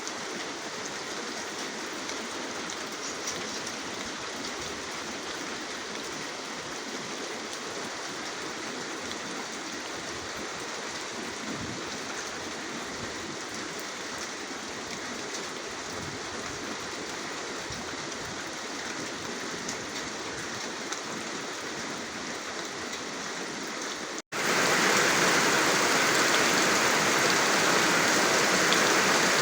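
Steady rainfall. About 24 seconds in, it cuts out for an instant and comes back noticeably louder and brighter.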